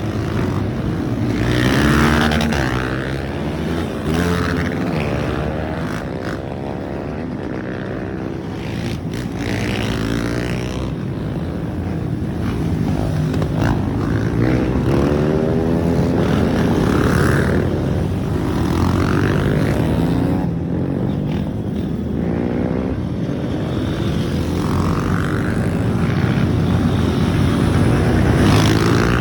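Several off-road trail motorcycles revving and riding past one after another at a mass start, their engine notes repeatedly rising and falling in pitch and overlapping.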